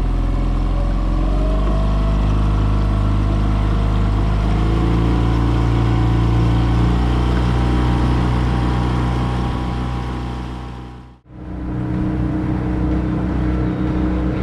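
A jon boat's outboard motor running steadily as the boat moves along, its drone cutting out sharply for a moment about eleven seconds in and then carrying on.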